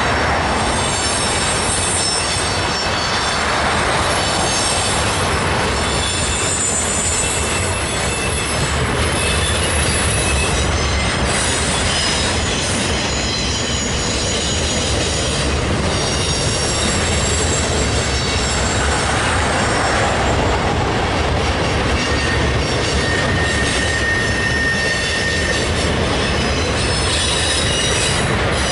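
Freight train's loaded flatcars rolling across a steel railroad bridge: a steady rumble and rattle of wheels on rail, with thin, high wheel squeals coming and going.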